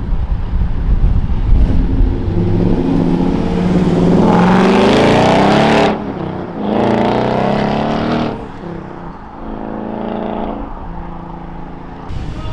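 Modified car engines driving off one after another, with the revs climbing hard about four seconds in and again near seven seconds, then a steadier engine note.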